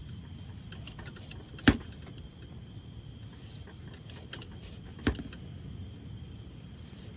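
Two sharp knocks about three and a half seconds apart, with lighter clicks and clinks scattered between them, over a low steady rumble.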